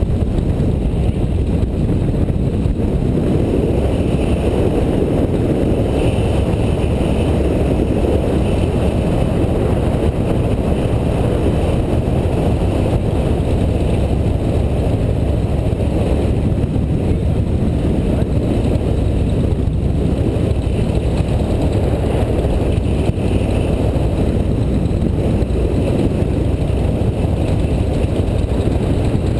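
Motorcycle running steadily at road speed, with heavy wind rushing over the microphone.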